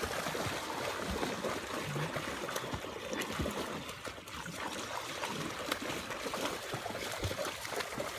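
A steady hiss of running water, with faint scattered clicks.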